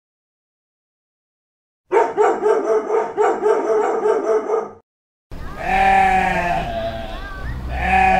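A dog barking in a rapid run of about three seconds, beginning about two seconds in after silence. Then a sheep bleats one long, wavering bleat, and a second bleat starts near the end.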